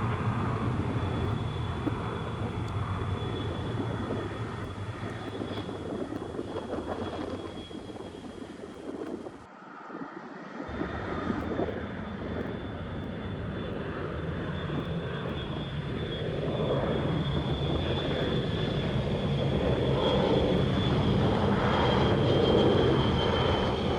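Jet airliner engines running with a steady high-pitched whine over a broad rumble, growing louder in the second half. The sound drops out for about a second roughly ten seconds in.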